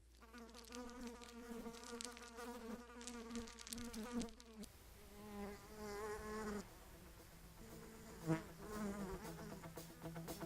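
Honeybees buzzing close by, several wingbeat tones wavering in pitch as bees fly near and away. There is one brief sharp knock about eight seconds in.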